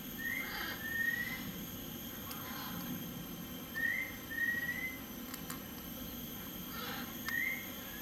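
A bird's clear two-note whistle, a short upslurred note followed by a longer, slightly rising one, given three times about three and a half seconds apart, over a steady low background rumble.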